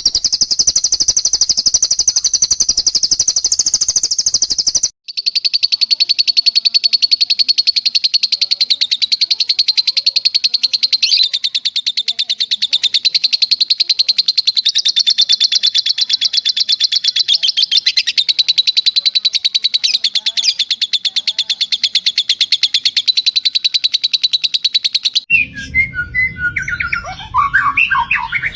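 Long, very fast, high-pitched bird trills from a cililin-and-lovebird 'long shot' training recording: one trill breaks off about five seconds in, and a slightly lower one runs unbroken for about twenty seconds. Near the end a lower, more varied bird song takes over, over a low steady rush.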